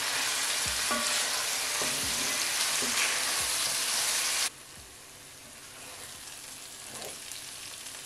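Diced tomato, onion, ginger and garlic frying in ghee in a pan, sizzling steadily while a wooden spatula stirs and scrapes through them. About four and a half seconds in, the sizzle drops suddenly to a much softer one.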